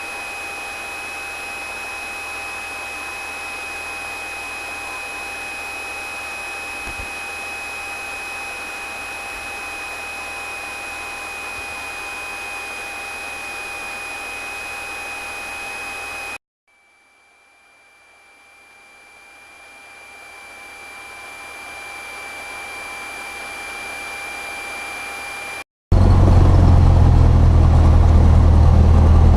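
Steady hiss with several constant high whine tones. It drops out about 16 seconds in and fades back up. About 26 seconds in it cuts to the loud, steady low drone of the Cessna 172's piston engine running.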